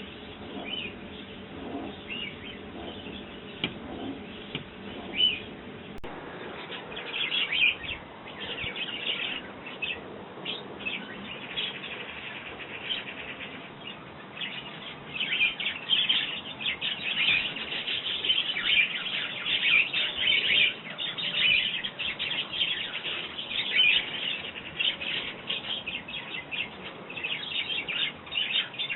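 Small garden birds chirping: many short, high chirps, sparse at first and growing into a busy, overlapping chatter from about halfway through.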